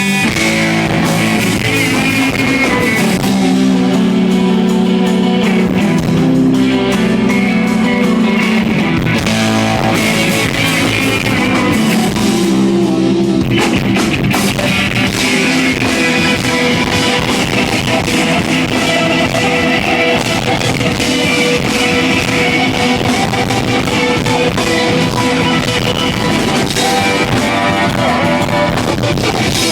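Live rock band playing: electric guitars and drum kit, loud and steady, with a brief drop in the cymbals about halfway through.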